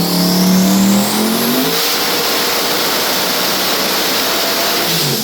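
Twin-turbo 427 LS V8 at full throttle in a dyno pull, its pitch climbing for the first second and a half and then holding loud and steady. A high turbo whine rises above it.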